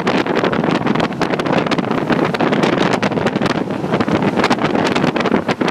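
Wind buffeting the microphone: a loud, ragged rush of noise with many short crackles and pops, without a steady pitch.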